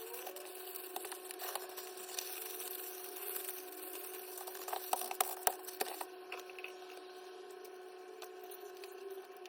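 Kitchen food-preparation handling noises: scattered clicks and knocks, a cluster of them about five to six seconds in, over a steady electrical hum.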